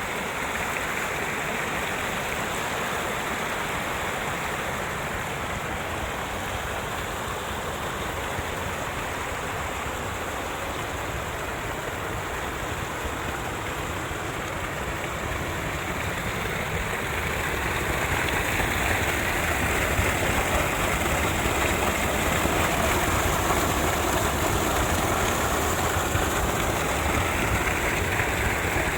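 Steady rushing water of a stream or cascade, growing louder about two-thirds of the way through.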